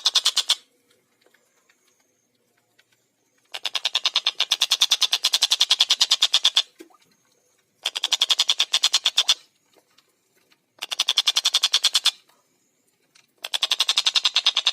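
Stork-billed kingfisher (tengkek buto) giving its loud, fast cackling rattle, about a dozen notes a second. The calls come in four or five separate bursts of one to three seconds each, with short pauses between them.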